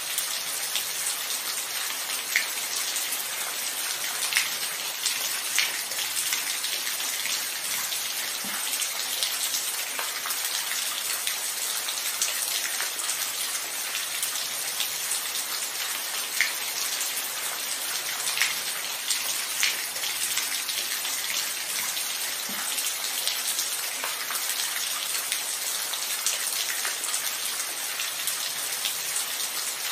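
Steady rainfall: an even hiss of rain with scattered individual drops ticking sharply on a nearby surface.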